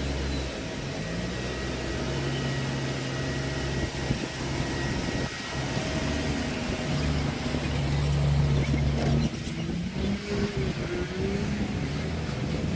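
A vehicle engine running steadily, its pitch shifting up and down a few times.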